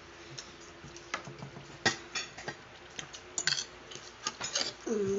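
Cutlery clicking and scraping on plates during a meal: irregular light clicks, one louder about two seconds in and a quick cluster a little past three seconds. A voice starts right at the end.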